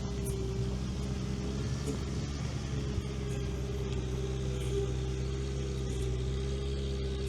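Engine of a Veter all-terrain vehicle running steadily, with a steady whine over the engine hum.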